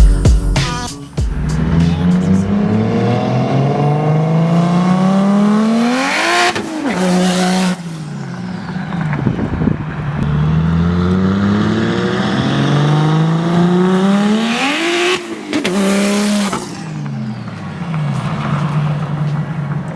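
Single-turbo BMW 135i's N54 straight-six making two hard full-throttle pulls, its note rising steadily through each one for about five seconds. Each pull ends in a short burst of hiss, the first about six seconds in and the second about fifteen seconds in.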